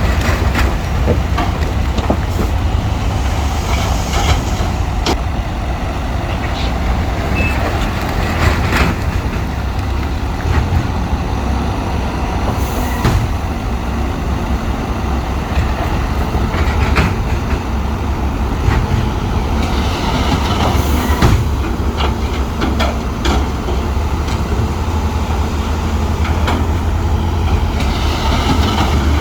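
Bulldozer's diesel engine running steadily with a low rumble, over frequent clanks and knocks from its tracks and the stone it is pushing. Two short hisses come about a third and two thirds of the way through.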